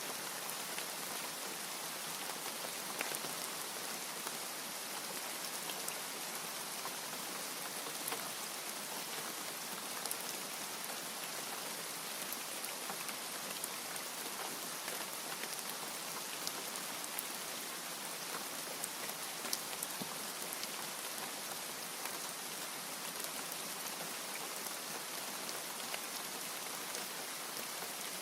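Steady rain falling, an even hiss with many small drop ticks scattered through it, and no thunder.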